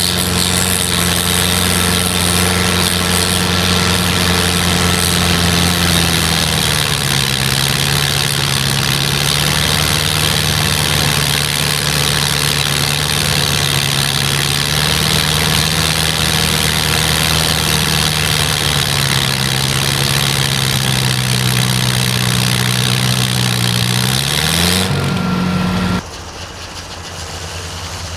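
Snowblower engine running hard, its pitch dropping about six seconds in as it takes on load. Near the end it revs up, then the sound cuts off abruptly to a quieter, fainter running.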